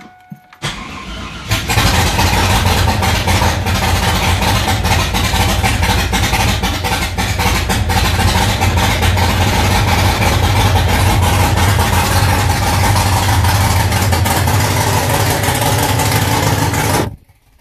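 Freshly built 6.0 L LQ4 V8 with a Comp LSR cam catching on its first start about a second and a half in, after a brief crank. It then idles loud and steady for about fifteen seconds and stops abruptly near the end.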